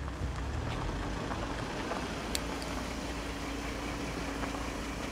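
Car engine running low as a car draws up and idles alongside, with a steady hum coming in a little over two seconds in. A single sharp click sounds at about the same moment.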